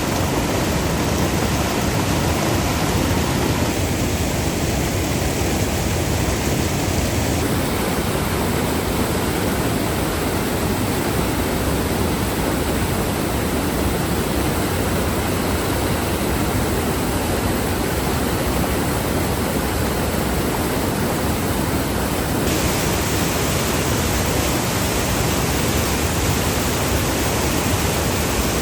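Steady, loud rush of falling water from a waterfall, an even noise with no other events. Its tone changes abruptly twice, about a third of the way in and near three-quarters.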